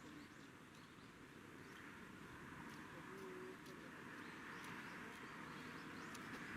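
Faint outdoor ambience: a steady low hiss that grows slightly louder, with a few faint bird chirps.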